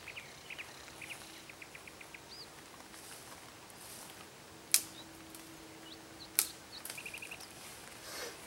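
Small birds chirping, with two sharp cracks of a burning Finnish candle (split-log torch fire) popping, the second about a second and a half after the first, near the middle.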